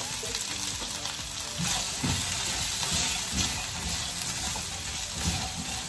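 Frozen green beans sizzling in hot oil in a frying pan, stirred with a spatula that scrapes the pan now and then.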